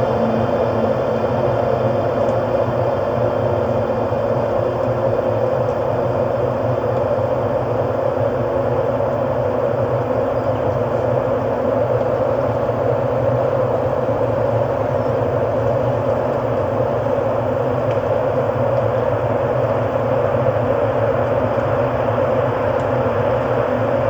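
Computer-generated ambient music: a steady, sustained drone of held tones with no beat.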